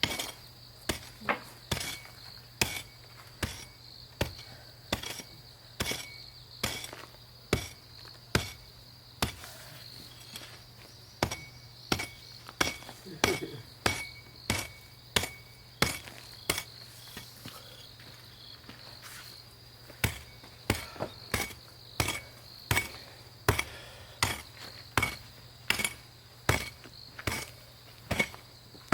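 Repeated hard strikes of a digging tool into stony ground, about one and a half blows a second, with two short pauses. Insects trill steadily underneath.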